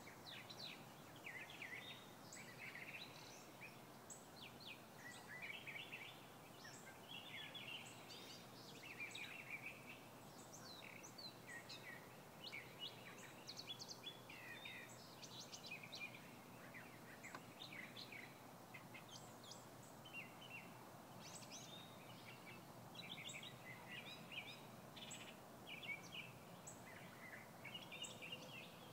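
Songbirds singing faintly: many short chirps and quick trills from several birds, overlapping and continuing without a break, over a steady low background noise.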